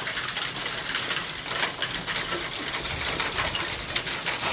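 Hailstones pelting hard surfaces: a dense patter of sharp clicks over a steady hiss of falling ice and rain, thickest near the end.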